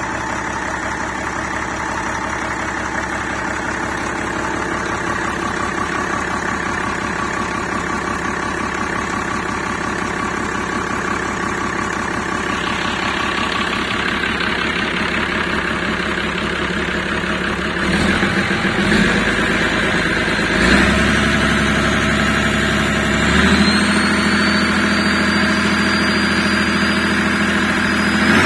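Perkins Sabre M225Ti six-cylinder turbocharged marine diesel idling steadily, then taken up in engine speed in steps about 18, 21 and 23 seconds in. After the last step, a high whine rises slowly in pitch.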